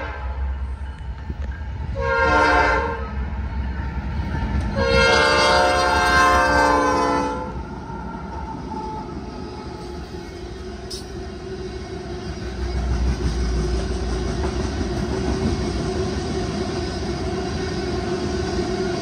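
A diesel freight locomotive's multi-note air horn sounds a short blast and then a long one as the train comes on, the closing notes of a grade-crossing signal. Then covered hopper cars roll past with steady wheel-on-rail noise.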